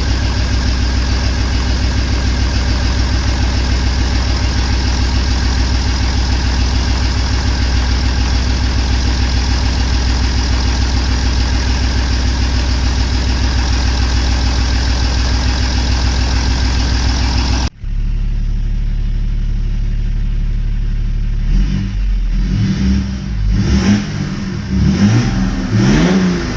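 BMW M57 straight-six diesel engine idling steadily after new injectors have been fitted. After an abrupt cut about two-thirds of the way in, the engine is heard quieter and is revved in short blips near the end.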